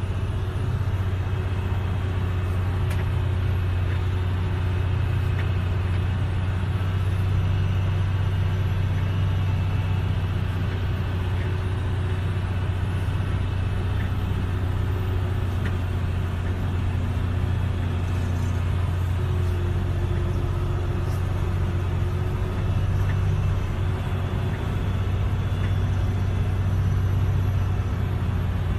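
A steady low engine rumble with a faint hum above it, unchanging throughout.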